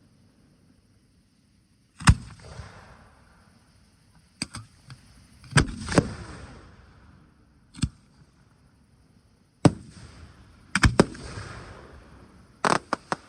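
Fireworks going off: about a dozen sharp bangs starting about two seconds in, some in quick clusters, several followed by a fading tail.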